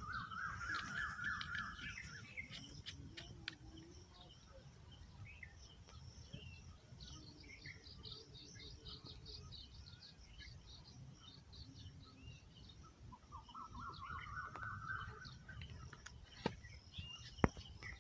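Birds calling and chirping: a quick series of rising notes near the start and again about thirteen seconds in, with many short high chirps in between. A low rumble runs underneath, and a couple of sharp clicks come near the end.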